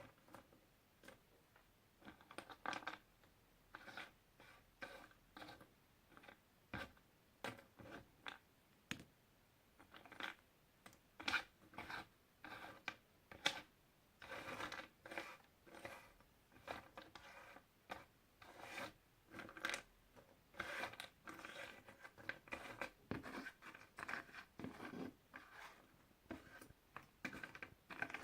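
Cardboard jigsaw puzzle pieces being handled: irregular small clicks, taps and short scratchy rubs, several a second, as pieces are picked up, slid and fitted together.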